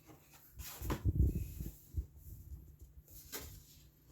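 Colouring-book pages being handled and turned, with a dull low thump about a second in and a short papery stroke near the end.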